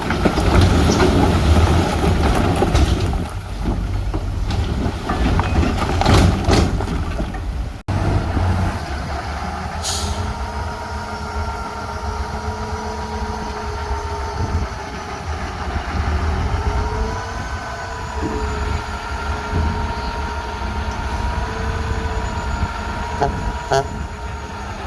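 Heavy diesel earthmoving machinery at work, bulldozers and dump trucks: a loud rumbling, clattering run for the first eight seconds, then after an abrupt change a steadier engine with a wavering whine. A short air-brake hiss comes about ten seconds in.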